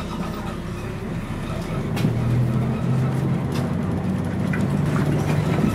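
Scania CN113CLL city bus's Scania DSC 11 diesel engine running, heard from on board, with the engine note growing louder and steadier about two seconds in as it takes up load. A few light clicks and rattles sound over it.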